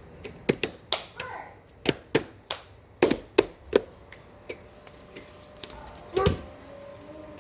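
A run of sharp, irregular clicks and knocks, some with a brief squeaky edge, then one louder knock with a short squeak about six seconds in.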